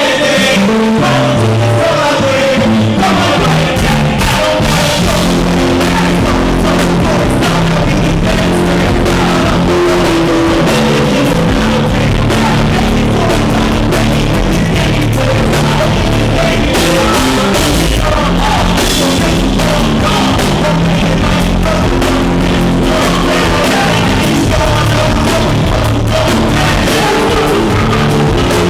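Live band playing loudly with sung vocals over it, heard through a club's sound system on a recording microphone that the sound system overloaded.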